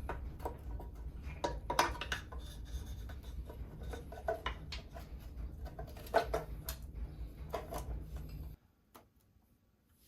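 Irregular small knocks, clinks and rubbing from hand tools and metal engine parts being handled on a workbench, over a steady low hum. The sound cuts off suddenly near the end.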